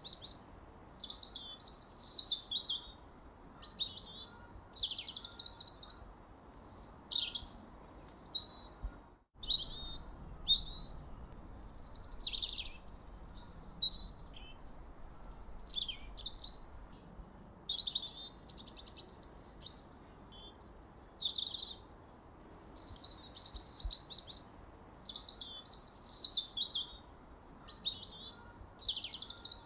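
Songbirds singing: a continuous run of quick chirps, whistles and trills, several overlapping, over a faint steady background hiss. The sound drops out for a split second about nine seconds in.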